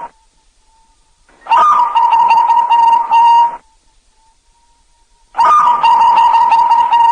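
Zebra dove (perkutut) cooing: two phrases of rapid, pulsed coos, the first about a second and a half in and the second starting about five and a half seconds in, with quiet gaps between.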